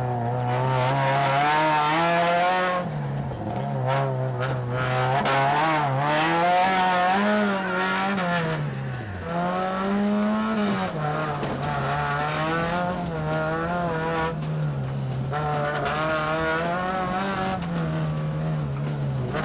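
Race car engine heard from inside the cabin while being driven hard, the revs climbing and dropping again and again, with a steep fall in pitch about halfway through and again near the end.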